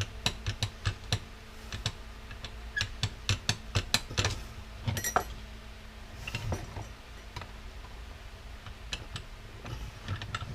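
Hand tools clicking and tapping irregularly against the metal parts of an electric power washer being taken apart, in small clusters of sharp clicks with pauses between them.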